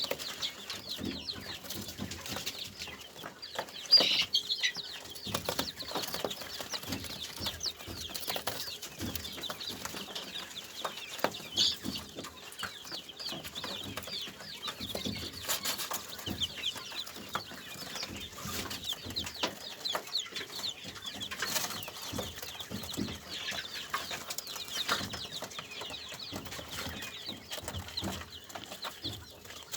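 A flock of kept birds chirping and calling without pause, with short wing flutters and scattered clicks; one sharper, louder call about four seconds in.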